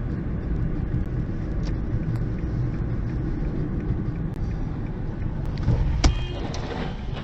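Steady low road and engine rumble of a car heard from the dashcam, with one sharp bang about six seconds in followed by a brief ringing.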